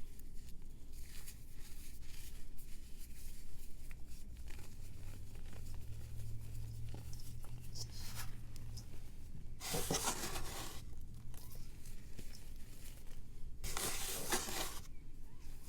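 A pressed powder block crumbling and being shaved by hand. Light scattered crackles are followed by two longer, louder crumbling crunches, about ten and fourteen seconds in.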